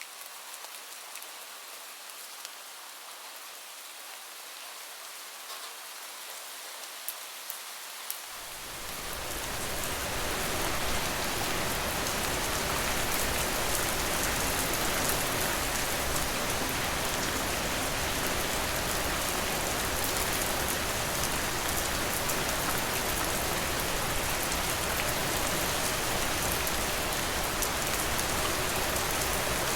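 Rain: a light patter with scattered single drops at first, then about eight seconds in a heavier, fuller downpour fades in and stays steady and louder.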